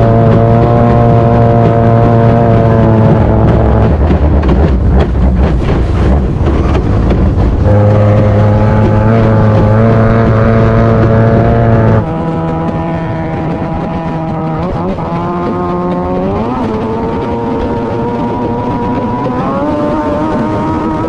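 Racing boat engine running hard at high revs, a loud steady drone whose pitch holds and then rises and falls several times. There is a sudden cut about twelve seconds in, after which the engine sounds quieter.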